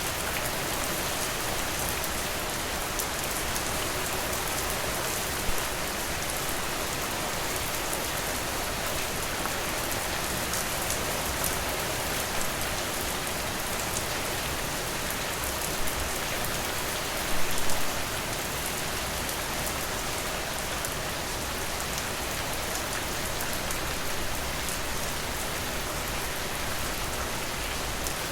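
Steady rain falling, with a constant patter and a few louder drops standing out, the loudest cluster about seventeen seconds in.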